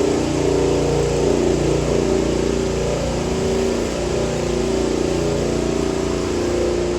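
An engine running steadily under load, its pitch wavering slightly, with a constant mechanical hiss over it.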